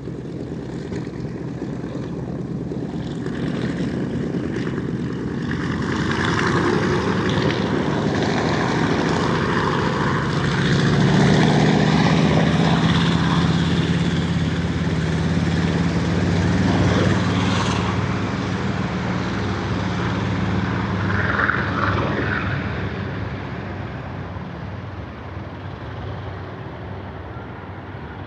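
B-25 Mitchell bomber's twin Wright R-2600 radial piston engines at takeoff power, a propeller drone that swells as the plane climbs out and passes, is loudest around the middle, then fades away.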